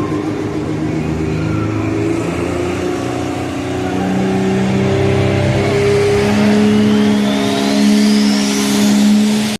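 Pro stock 2017 Dodge Ram 2500's Cummins diesel engine running hard under load on a pull, its pitch climbing over the second half, with a turbocharger whistle rising sharply near the end.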